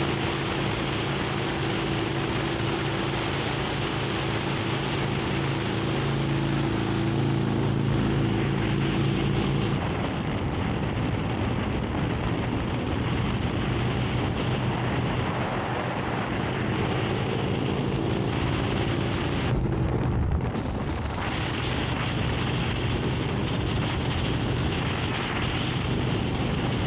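Harley-Davidson V-twin motorcycle engine running steadily at cruising speed, with heavy wind noise on the microphone. The engine note drops to a lower steady pitch about ten seconds in.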